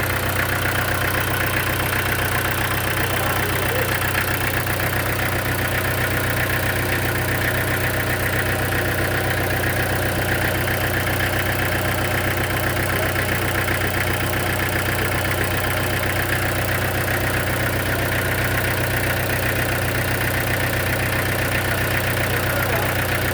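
An engine running steadily at idle, with a fast, even pulse and no change in speed.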